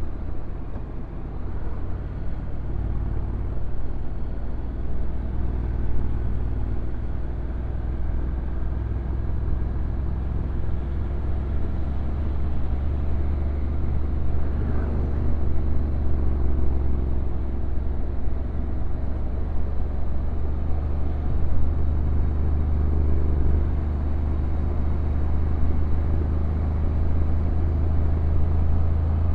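Honda NC750X parallel-twin engine running at low, fairly steady revs while the motorcycle rides downhill, heard as a continuous low rumble.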